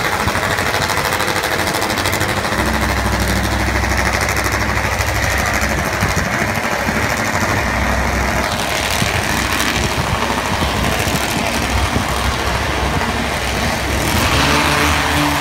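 Top Fuel drag bike's engine running with a loud, rapid, hammering idle. It swells louder near the end.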